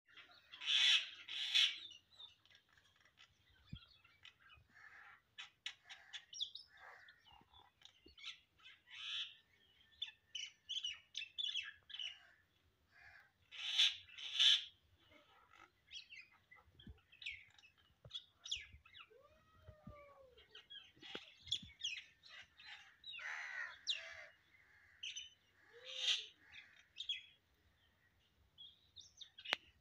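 Birds calling: a few loud, harsh calls, twice in pairs, with softer chirps and twitters in between.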